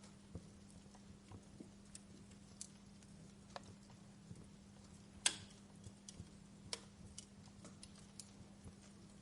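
Wood fire in a fireplace crackling faintly with small, irregular pops, one sharper pop about five seconds in, over a steady low hum.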